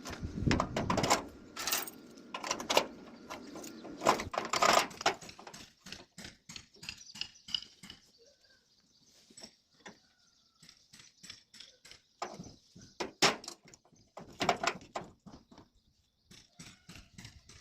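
Irregular metallic clinks and knocks of steel pieces being handled and set down, coming in clusters with quieter gaps, over a faint steady high hiss from about six seconds in.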